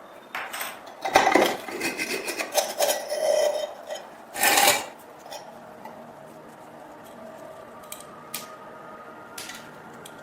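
Scraping and rubbing on a metal oil lamp by hand during restoration, in irregular strokes for about four seconds and one louder stroke near the middle, then only a few light ticks and clinks.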